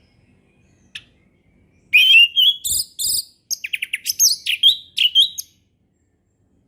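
Orange-headed thrush singing in the clear, full 'ngeplong' style: a short call about a second in, then one phrase of varied whistled notes and quick trills lasting about three and a half seconds.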